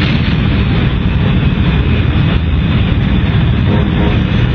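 Animated sound effect of spacecraft propulsion engines running: a loud, steady rumble with a hiss above it.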